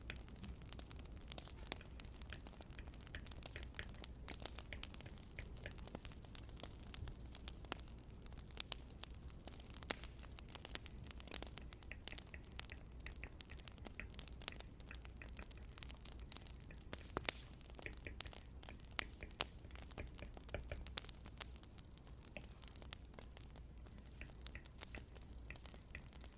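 Wood fire crackling: irregular pops and snaps of burning firewood over a steady low rumble.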